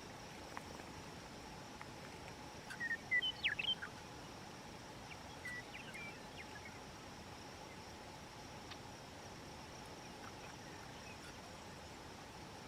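Faint evening chorus of pond-side insects and frogs humming steadily, with a bird's short chirping calls in a burst about three seconds in and a few more about five to six seconds in.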